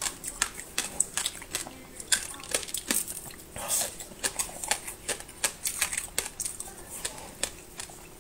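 Close-miked chewing and mouth sounds of someone eating a soft cake stick: an irregular run of sharp, wet clicks and smacks, several a second.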